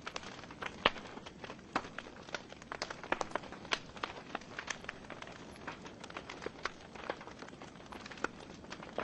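Wood fire burning in a fireplace: a soft steady hiss of the flames with frequent irregular sharp crackles and pops from the burning logs, the loudest a little under a second in.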